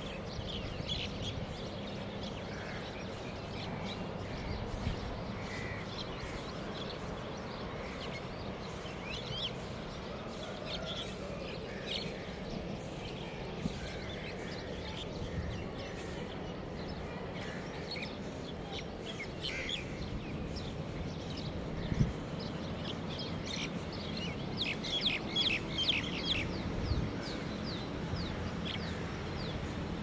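Birds chirping and calling in scattered short notes over a steady low background hum, thickening into a burst of rapid calls near the end. One brief thump about two-thirds of the way through.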